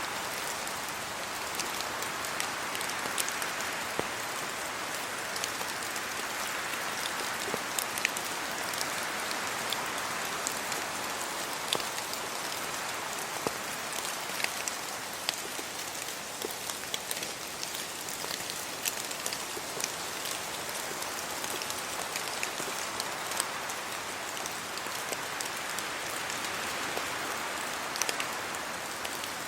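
Steady rain: a constant hiss of falling rain with many sharp, scattered hits of individual drops.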